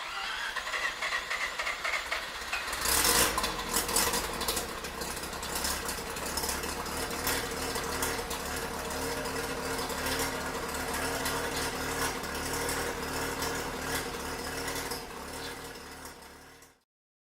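Car engine catching about three seconds in and then running steadily with a rattly, ticking idle; the sound cuts off abruptly near the end.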